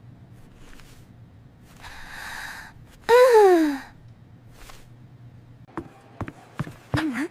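A person's voice: a breathy gasp about two seconds in, then a loud vocal sigh that falls steeply in pitch. A few short clicks follow near the end.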